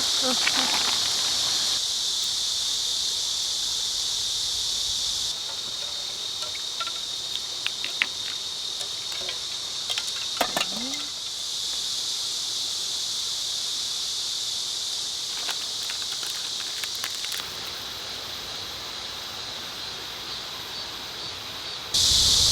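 A steady, high-pitched chorus of summer insects, shifting in loudness a few times, with scattered faint clicks and taps.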